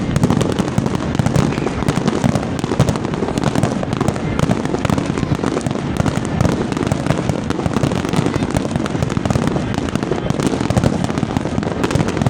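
Fireworks and firecrackers going off in a dense, unbroken barrage of rapid crackles and pops, with no pause between them.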